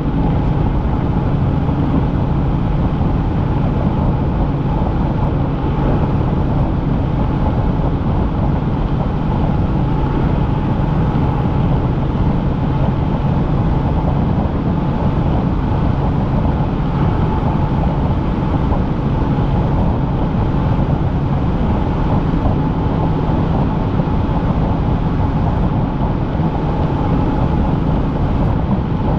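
Helicopter engine and rotors running steadily in flight, heard from inside the cabin: a constant loud drone with a low hum and a faint higher whine that never changes.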